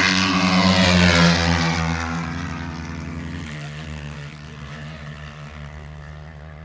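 Dirt bike engines at hard throttle in a drag run. The sound is loud at first, then fades steadily over several seconds as the bikes pull away down the dirt strip.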